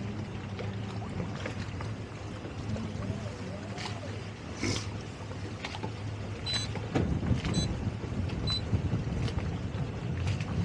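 Towboat's engine running steadily under way, with wind buffeting the microphone that grows rougher about seven seconds in.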